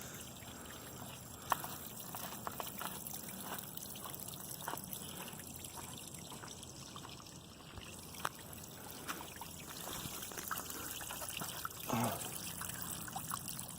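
Small waterfall trickling over rock: a steady water sound with scattered small splashes, and a brief louder noise near the end.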